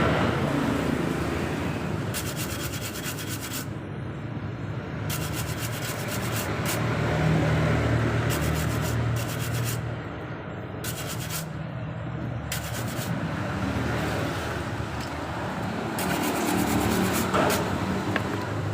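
Continuous abrasive scrubbing of the radiator's metal around the leak, cleaning it so the solder will stick, with a low hum underneath.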